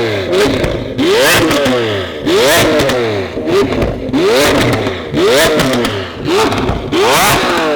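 A sports-car engine revved hard over and over, its pitch climbing and falling back roughly once a second.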